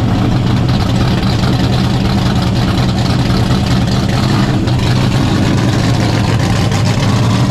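A drag-race car's engine idling loudly and steadily, a low pitched note that holds without revving.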